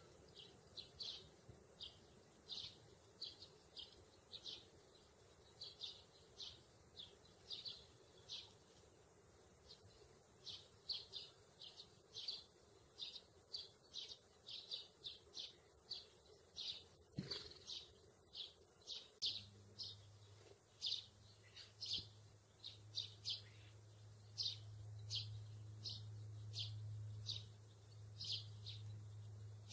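Small birds chirping: short, high chirps, two or three a second, throughout. About two-thirds of the way in, a low steady hum starts under them.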